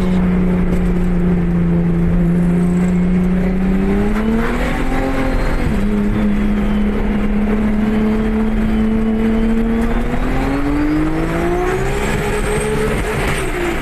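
Nissan Skyline GT-R's straight-six engine heard from inside the cabin while driving. It holds steady revs, then twice climbs in pitch and drops back sharply, about six seconds in and again near the end.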